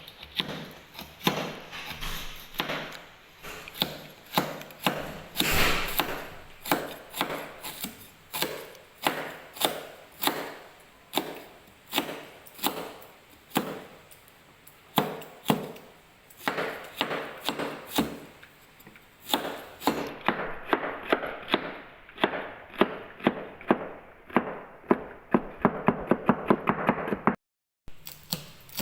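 Knife chopping food on a board: single strokes about one or two a second, quickening into rapid chopping near the end.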